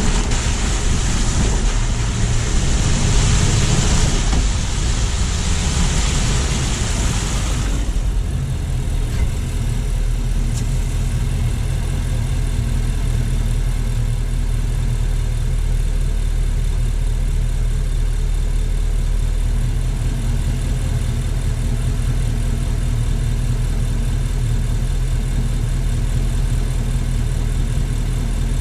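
Car on a snowy city street: a loud hiss over a low engine hum, which stops suddenly about eight seconds in, leaving the engine hum running steadily, as at idle.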